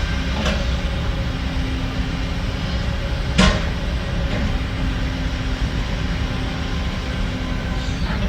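Diesel engine of heavy earthmoving machinery running steadily with a low rumble, with a sharp metal clank about three and a half seconds in and lighter clicks near the start and end.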